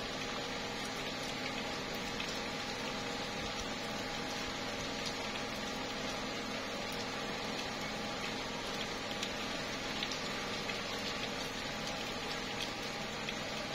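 Slow, steady rain falling on tree leaves: an even hiss with scattered drops ticking through it.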